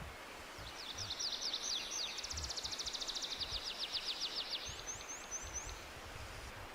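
A small songbird sings a fast trill of quick, downward-sweeping notes lasting about four seconds, ending with a few higher notes, over a steady forest background hiss.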